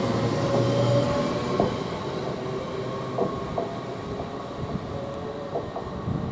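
Passenger train moving slowly through the station: a steady motor hum fades after about a second, then the wheels click irregularly over rail joints as the train draws away and the sound dies down.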